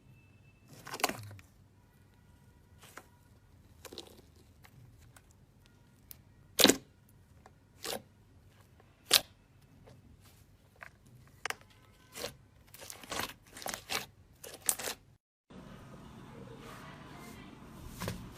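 Slime being pressed and stretched, giving off sharp separate crackling pops with quiet gaps between them, then a quicker run of pops. About 15 seconds in the sound cuts to a steadier hiss.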